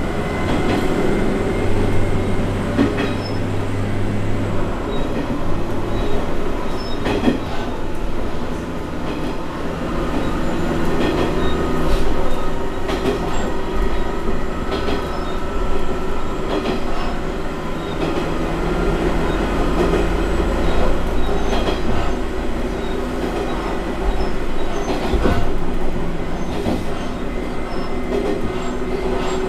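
Diesel railcar running, heard from inside the passenger cabin: a steady drone of engine and wheels on the rails, with irregular sharp clicks as the wheels pass over rail joints.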